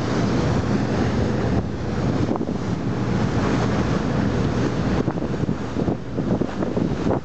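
Wind buffeting the microphone over the wash of the sea, a steady rough rumble with no clear tones.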